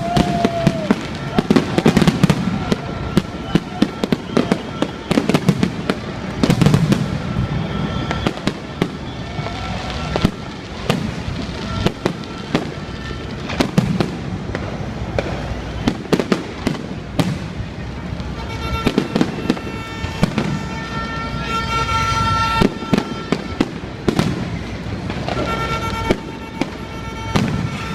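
Fireworks and firecrackers going off in rapid, irregular bangs and crackles, with steady tones sounding behind them.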